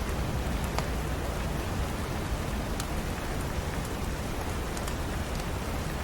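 Steady rain falling, with a few sharp crackles from a wood fire in a fireplace here and there.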